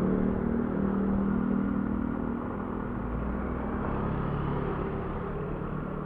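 Motorcycle engine running, louder for the first couple of seconds and then easing off to a lower, steadier hum.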